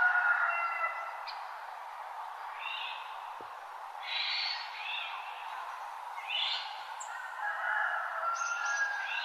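Several birds singing in a forest dawn chorus: short bursts of chirps recur every couple of seconds over longer held notes. A steady background hiss runs underneath.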